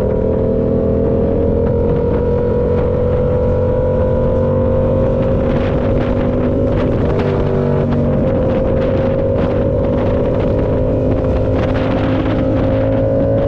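The 2013 R7's engine running under load on the move, its pitch creeping slowly up as the revs climb, with a brief break in the note about seven seconds in.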